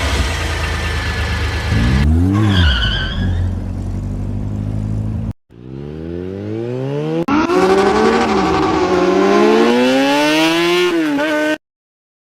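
Race car engine revving, its pitch climbing and falling again through several gear changes, with a brief high squeal about two seconds in. The sound breaks off twice and then cuts out abruptly near the end.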